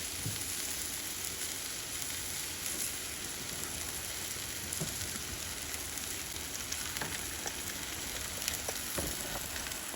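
Steak with onions and cheese sizzling steadily in a cast iron skillet, with a few faint clicks and scrapes.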